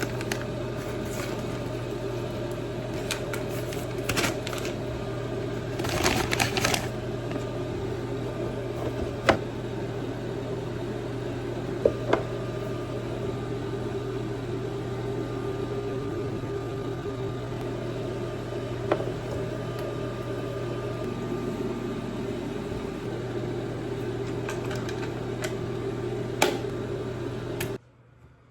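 Microwave oven running with a steady hum while heating water for tea, with a few sharp clicks now and then; it shuts off abruptly near the end.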